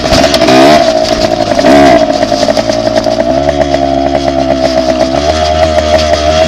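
Dirt bike engine running loud, with two quick rises and falls in pitch as the throttle is blipped in the first two seconds, then a steadier drone.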